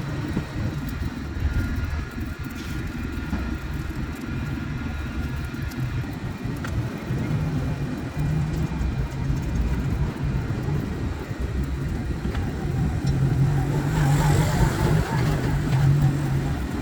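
A low motor rumble, like an engine running, that swells louder a couple of seconds before the end.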